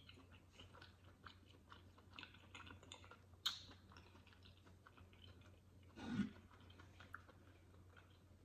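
Faint, close-up chewing of chitterlings (pork intestines) with the mouth closed: small soft wet clicks throughout, with a sharper click about three and a half seconds in and a short low hum about six seconds in.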